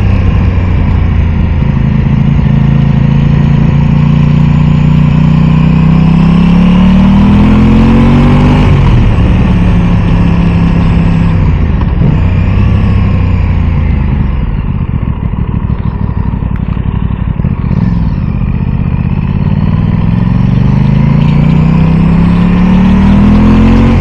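Aprilia Tuono 660 parallel-twin engine under way: the revs climb for several seconds, drop at a gear change, hold, ease off, then climb again near the end. Wind rushes over the microphone throughout.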